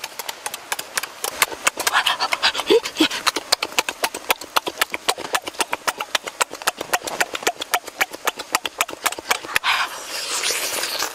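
Close-up eating: fast, wet chewing and lip-smacking as a whole grilled fish is bitten and chewed, a rapid, irregular run of clicks throughout.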